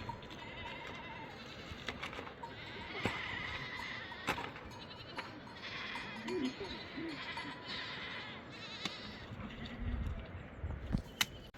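Flock livestock bleating in short calls, several of them about six to seven seconds in, with a few sharp knocks.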